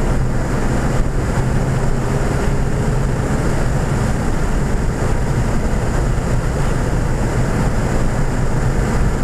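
2014 Ford Fiesta ST's 1.6-litre turbocharged four-cylinder engine running hard under throttle down a straight, heard from inside the cabin, with a steady drone of road and wind noise.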